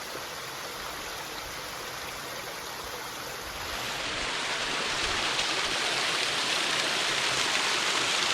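Waterfall's rushing water, a steady hiss that grows louder about four seconds in.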